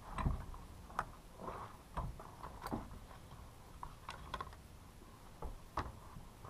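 Scattered light clicks and knocks of small plastic and metal chainsaw parts and hand tools being handled during dismantling, irregular and unhurried.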